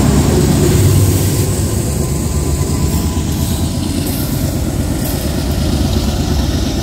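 Freight train rolling past close by: a steady, loud rumble of wheels and cars on the rail.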